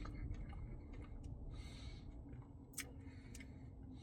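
Faint close-up eating sounds: scattered small clicks, a short soft chewing smear a little under two seconds in, and two sharper clicks later on.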